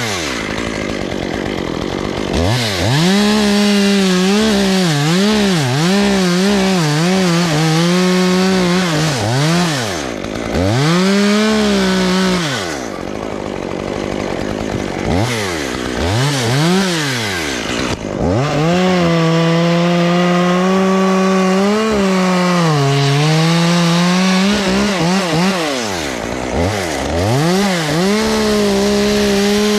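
Chainsaw being revved up and down over and over, dropping briefly toward idle between bursts. In the second half it is held at full speed for several seconds at a time, as in cutting.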